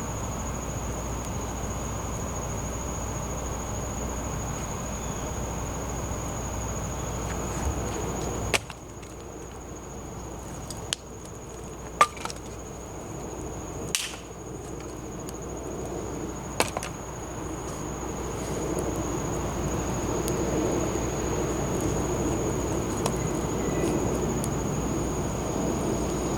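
Wood campfire crackling, with a handful of sharp pops and cracks, and the fire's rushing sound growing louder as it catches.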